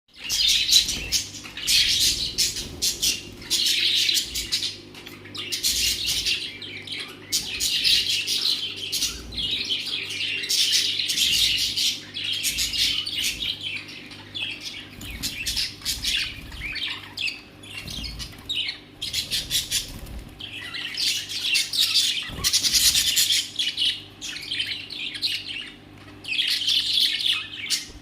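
Small birds chirping and squawking in rapid, overlapping bouts of a second or two, one after another.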